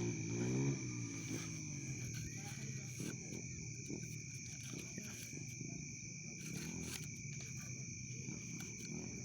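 Insects trilling steadily, two unbroken high tones, with faint low voices in the background and a few faint clicks.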